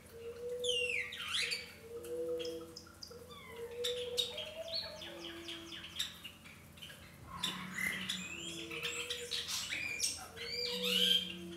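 Small birds chirping and calling, with quick high chirps and fast sweeping whistles, over a low two-note sound that repeats about once a second.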